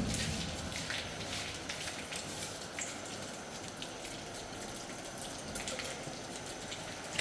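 Water pattering and dripping: a steady hiss with scattered small ticks.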